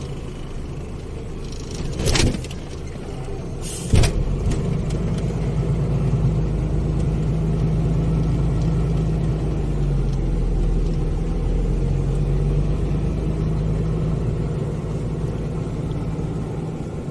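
Heavy truck's engine running, heard from inside the cab. There are two short knocks about two and four seconds in, after which the engine note grows louder and holds steady.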